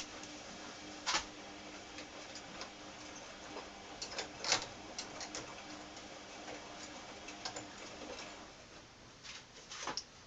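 Irregular light clicks and taps of tools and small parts being handled during the clutch work. The loudest comes about halfway through, over a faint steady hum.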